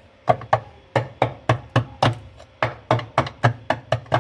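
Rapid, even series of sharp knocks on the washing machine's parts, about four a second, with a short gap just after the start. This is the kind of striking done to loosen a transmission mechanism jammed by caked soap.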